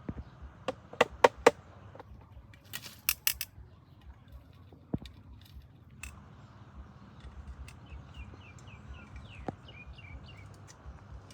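Several sharp clicks and taps, the loudest about a second in, then a bird calling in a quick series of short falling chirps near the end, over a low steady outdoor background.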